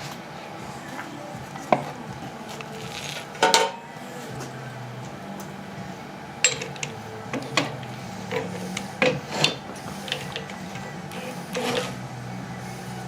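Scattered metallic clinks and knocks of tools and parts being handled on a workbench, about seven in all, over a steady low hum.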